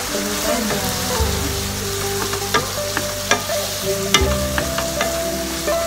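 Squid and petai frying in a hot pan, a steady sizzle, with sweet soy sauce just added. A spatula stirs and scrapes through the food and knocks sharply against the pan a few times.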